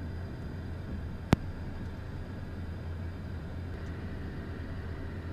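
Steady low hum of a Beechcraft Premier I business jet's cockpit, heard through the intercom or headset feed, with one sharp click a little over a second in.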